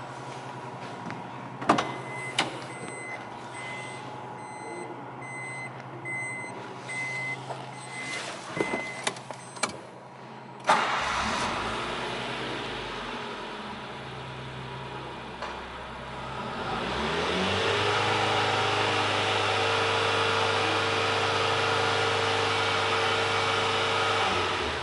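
Subaru Pleo's small four-cylinder kei-car engine cranking and catching about eleven seconds in, then idling. From about seventeen seconds the revs rise and are held steady, then fall back just before the end. Earlier, a few clicks and the car's warning chime beeping repeatedly.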